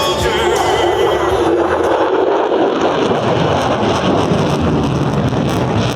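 Pratt & Whitney F135 turbofan of an F-35A Lightning II roaring in flight, a loud, steady roar that grows deeper about halfway through.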